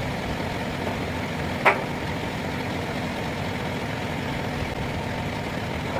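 A truck engine idling steadily, with one sharp, short knock about a second and a half in.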